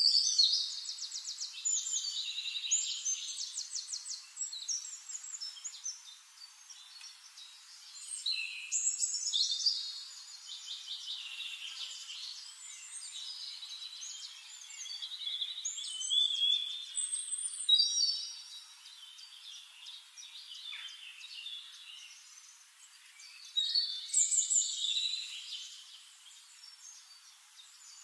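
A small songbird singing in repeated bouts of rapid, high-pitched trills and chirps, with pauses between the phrases.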